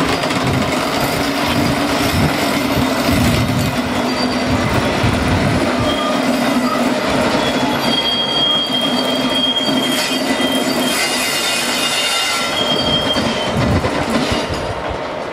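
A Class 59 diesel locomotive's two-stroke EMD engine running steadily as it hauls a train of hopper wagons past, with wheels clattering over the rails. From about six seconds in until about thirteen seconds, the wheels squeal with thin, high, steady tones.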